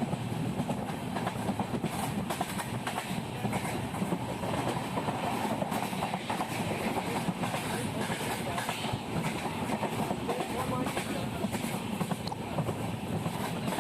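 Passenger train running along the track, with wheels clattering over the rails under a steady rumble.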